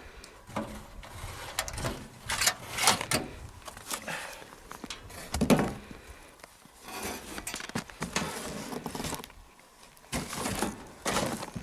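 Irregular clinks, knocks and scrapes of sheet-metal tent-stove parts being handled, as the heat shields held on by wing nuts are loosened and taken off.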